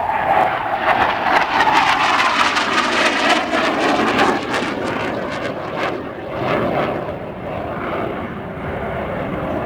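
Aircraft flying past, its engine sound loudest in the first few seconds, with a pitch that falls as it goes by.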